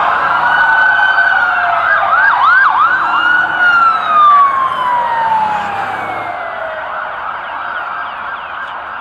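Several emergency vehicle sirens wailing together: one rises at the start, gives three quick yelps about two to three seconds in, then slides down in a long falling wail as the sound fades.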